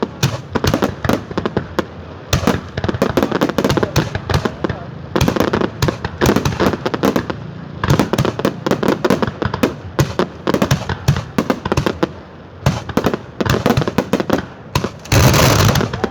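Fireworks display going off: a dense, irregular stream of cracks, pops and bangs. A louder, sustained rushing noise starts near the end.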